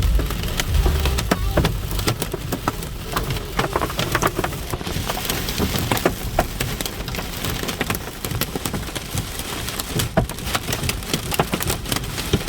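Hail and rain pelting down from a severe thunderstorm, a dense, irregular patter of sharp hits over a steady hiss. A low rumble sits under it for the first couple of seconds.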